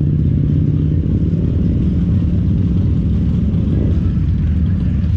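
Motorcycle engines running steadily together, a low rumble as a group of riders sets off.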